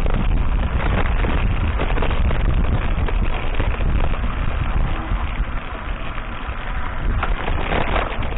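Mountain bike riding over a rough dirt track, recorded on an action camera: a steady low rumble of wind and motion buffeting the microphone, with rattles and knocks from the bike bouncing over the bumps.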